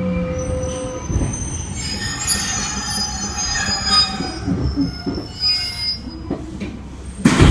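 Kintetsu 1435 series electric train pulling into a platform. A steady motor whine cuts off about a second in, then a high squeal from the undercarriage comes and goes as the train slows to a stop. A sudden loud burst of noise comes near the end.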